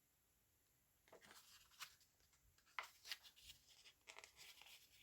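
Faint rustling of a paper journal page and fiber trim being handled, with a few small sharp ticks, as the fibers are threaded through punched holes; it starts about a second in.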